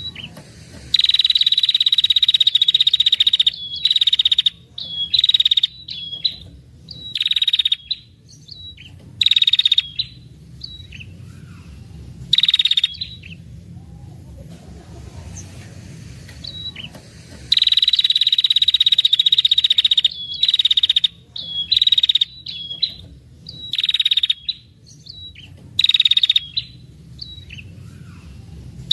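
Female red-headed prenjak giving long, buzzy trilling calls, the 'ngetir' rattle used as a lure to draw in males. Two long trills of about two and a half seconds, one about a second in and one past the middle, with many shorter trills and short chips between them.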